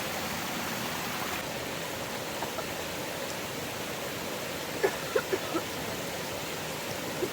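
Steady rushing water noise, the even hiss of rain or a stream, with a few short, quick chirps about five seconds in.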